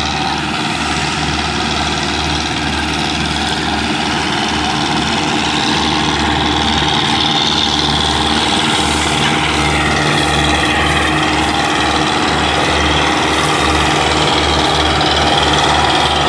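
Belarus tractors' diesel engines running hard under heavy load, straining to pull a stuck, overloaded sugarcane trolley. A steady low engine note with an even pulse, growing slightly louder in the second half.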